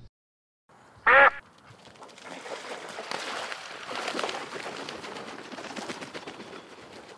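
Ducks quacking: one loud single quack about a second in, then the steady overlapping quacking and chatter of a flock.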